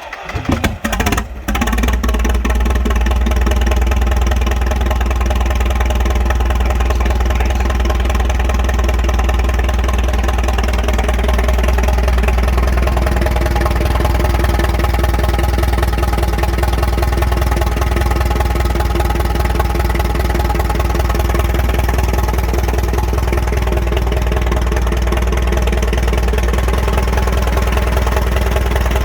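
1938 Farmall F20 tractor's four-cylinder engine catching, uneven for about the first second and a half, then running at a steady idle.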